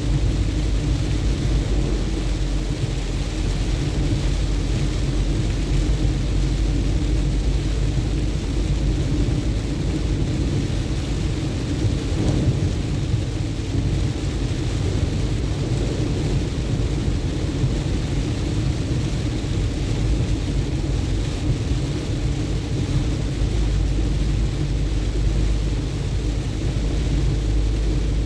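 A car driving in heavy rain: a steady low rumble of the road and engine with the hiss of rain over it.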